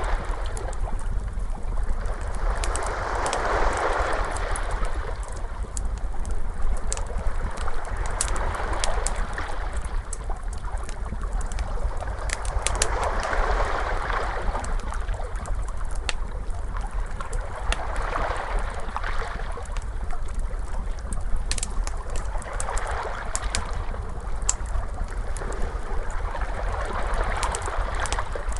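Ocean waves washing in and out about every five seconds, over a wood fire crackling with frequent sharp pops and a steady low rumble.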